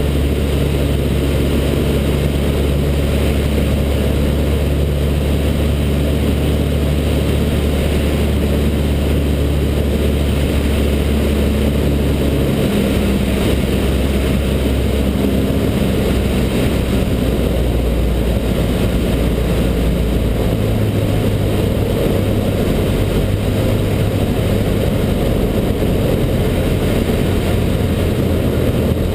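Cessna 152's Lycoming O-235 four-cylinder engine and propeller droning steadily, with the pitch of the drone shifting about 12 seconds in and again about 20 seconds in.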